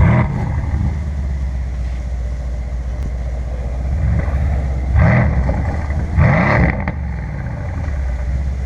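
Mercedes-AMG C63 S Edition 1 with an Akrapovic exhaust idling with a deep steady burble. It is revved at the very start and briefly near four seconds, then blipped hard twice, about five and six seconds in, the pitch shooting up and dropping back each time.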